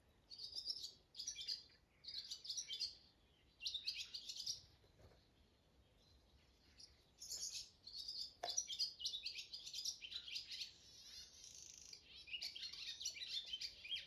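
Songbirds singing: bursts of quick, high chirping notes in separate phrases with short gaps, running more continuously over the last few seconds.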